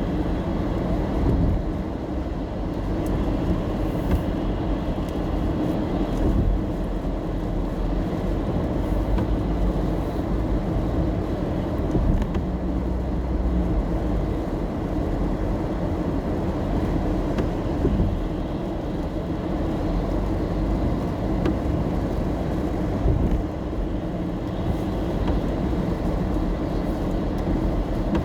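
Steady road noise inside a moving car in the rain: a low engine and tyre rumble, with a faint hiss and occasional small ticks and bumps.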